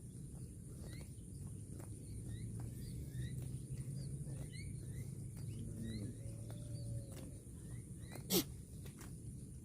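A cow giving a low, drawn-out moo that swells for several seconds and fades, with a sharp click near the end.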